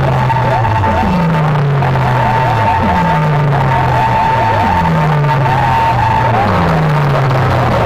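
Loud electronic DJ music played through a sound-service speaker system: a low bass hit that drops in pitch repeats about every second and a half, under a steady high tone that stops about six seconds in and a run of quick falling chirps.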